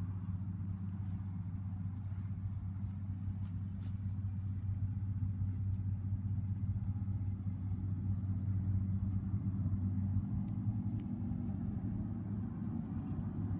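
Quadcopter drone's electric motors and propellers humming steadily in flight, a low drone whose pitch shifts a little about ten seconds in.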